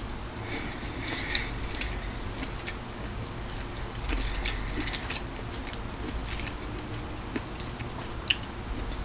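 A person chewing a mouthful of cauliflower fried rice and shrimp, with soft wet mouth sounds and small crackles. A couple of sharp clicks stand out, one near 2 seconds in and one near 8 seconds in.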